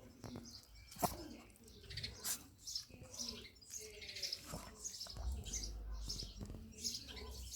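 Small dog chewing and tearing at grass: an irregular run of short, crisp crunches and rustles, with a sharper snap about a second in.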